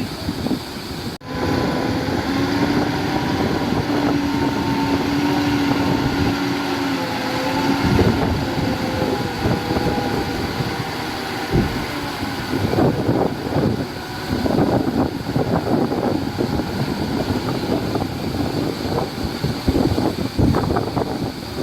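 Heavy diesel earthmoving machinery working: an engine hums at a steady pitch for several seconds, then gives way to rumbling with irregular clanks and clatters. The sound cuts out for a moment about a second in.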